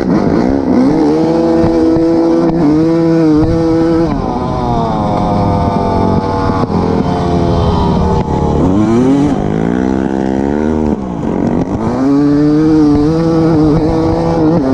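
Motorcycle engine revving hard: the pitch climbs and holds high, falls away after about four seconds, sweeps up again twice near the middle, and climbs back to a held high rev for the last few seconds.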